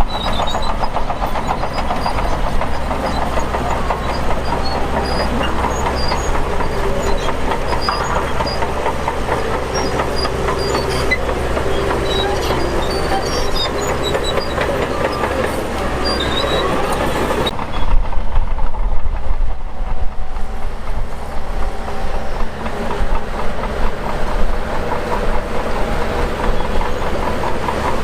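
Shantui DH17 crawler bulldozer running, its engine drone mixed with the clanking rattle of the steel tracks. About two-thirds of the way through, the sound changes abruptly to a duller, louder engine noise with uneven surges.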